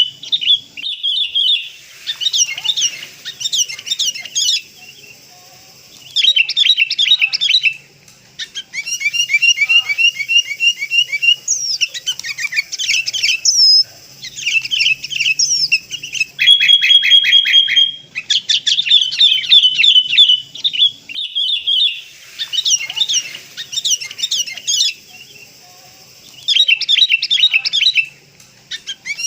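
Sooty-headed bulbuls calling: loud, high, rapid chirping chatter in repeated bursts of a second or two with short gaps between them, played as a lure call for bulbuls.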